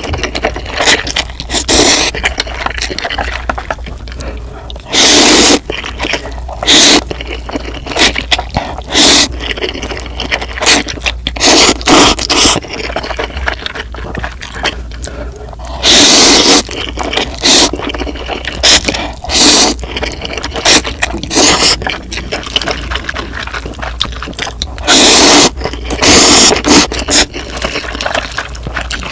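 Close-miked eating of instant noodles: wet chewing and smacking clicks, broken several times by loud slurps lasting about half a second to a second.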